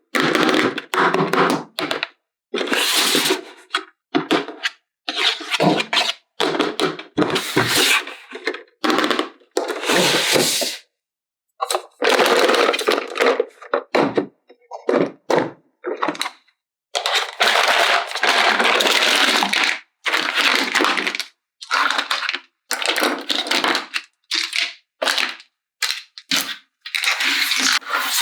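Hands handling plastic toy parts and packaging: crackling, clacking and rubbing in repeated bursts a second or two long, broken by sudden silent gaps.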